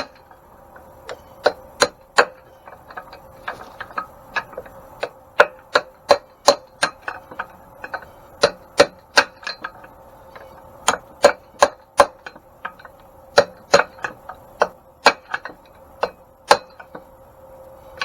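Hammer blows on a steel shaft driving an oil-impregnated bronze bushing deeper into its bore, about thirty sharp taps in irregular runs with short pauses, over a steady faint hum.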